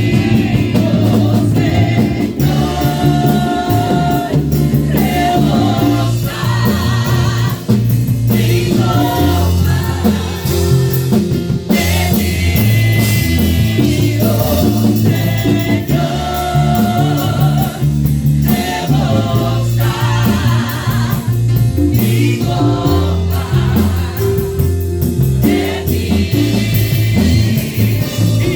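Christian praise and worship music: voices singing over a band with a prominent bass line.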